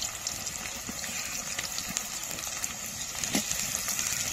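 Onions frying in plenty of hot oil in a pan, a steady sizzling and crackling: the onions being fried brown to make beresta. A sharper knock comes about three and a half seconds in.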